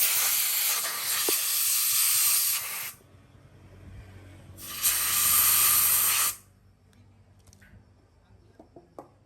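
Two bursts of pressurised spray hissing: the first stops about three seconds in, the second runs for about a second and a half in the middle. A few faint small clicks follow near the end.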